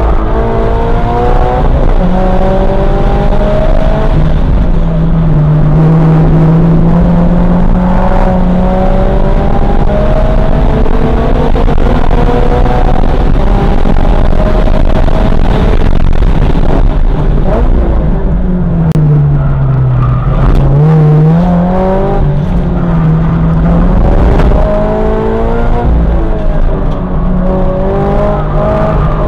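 Toyota GR86's 2.4-litre flat-four engine at full throttle, heard from inside the cabin, its pitch rising steadily through the gears. About two-thirds of the way through the revs fall sharply under braking with quick downshift blips, then climb again as it pulls out of the corner.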